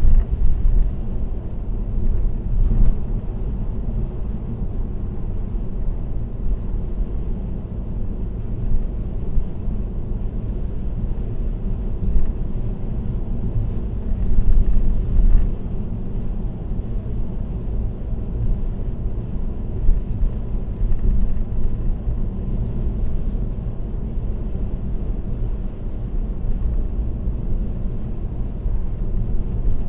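Steady road and tyre noise of a car cruising on an expressway: a low, even rumble with the engine running underneath.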